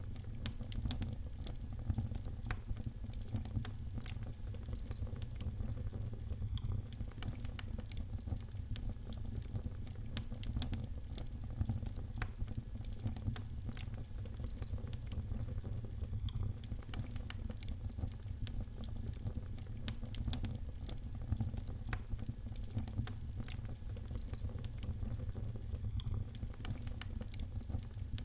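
A fire in a fireplace crackling: a dense, irregular stream of small pops and snaps over a steady low rumble.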